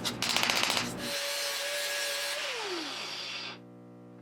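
A handheld power tool works in short bursts of rapid pulsing for about a second. It then runs free with a steady whine and hiss, and spins down, its pitch falling as it slows to a stop.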